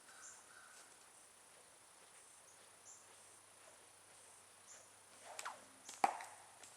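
Insects chirping faintly. Near the end comes a quick falling swish, then a single sharp crack with a brief ring: a stone being slung from a homemade sling.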